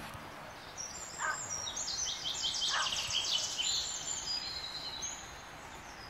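A songbird singing a fast run of high, repeated notes for several seconds, over faint steady outdoor hiss.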